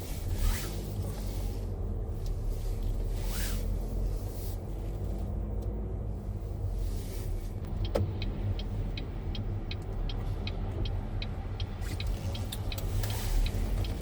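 Car cabin with a steady low rumble of the engine and road noise. A little past halfway there is a click, then the turn-signal indicator starts ticking evenly, about two ticks a second.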